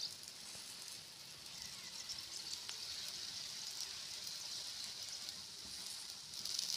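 Bread omelette, bread dipped in beaten egg, frying in oil in a non-stick pan with a steady, quiet sizzle that grows a little louder near the end.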